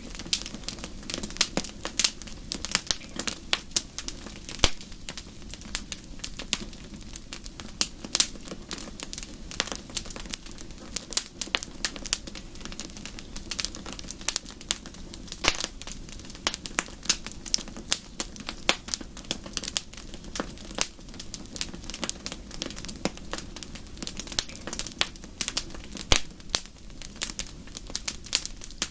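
Wood fire in a fireplace crackling, with many irregular sharp pops and snaps over a steady low rumble of the burning.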